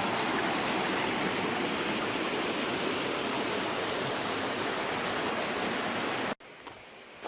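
Creek water rushing through a rock tunnel under a natural bridge, a steady loud noise. It cuts off suddenly a little over six seconds in, leaving a quiet background with a few faint clicks.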